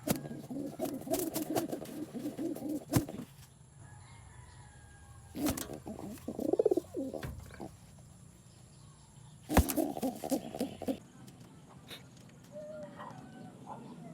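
Pigeons flapping their wings in two bursts of rapid clattering, one at the start and one about two-thirds of the way in, with a low pigeon coo in between.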